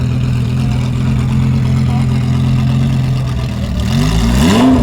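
Car engine idling steadily, then revved sharply near the end, rising in pitch.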